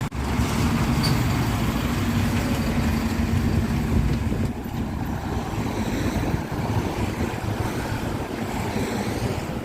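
A heavy vehicle's engine running with a low rumble and a steady hum, which stops about halfway through, leaving a quieter rumble.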